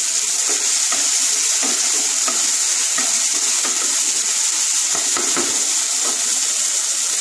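Chopped tomato and green chilli sizzling steadily in oil in a nonstick kadai, with a wooden spatula stirring and scraping across the pan at irregular intervals.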